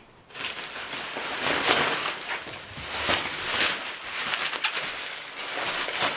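Packaging being handled and unwrapped, with irregular rustling, crinkling and scraping.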